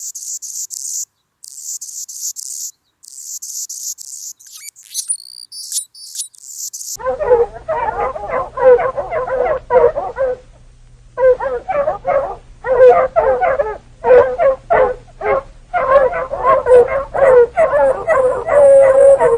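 A dog howling and yipping in quick, short, pitched calls, after a few seconds of thin, high hissing bursts.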